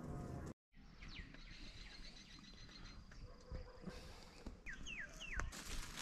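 Wild birds calling: several quick down-slurred whistles about a second in and again near the end, with a thin high trill-like note in between, over faint outdoor ambience. A brief burst of hiss-like noise comes near the end.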